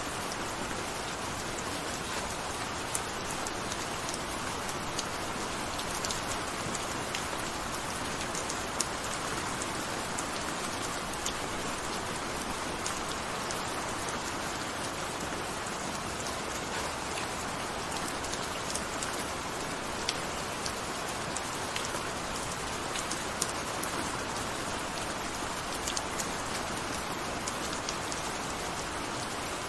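Gentle steady rain, an even hiss with scattered individual drops ticking.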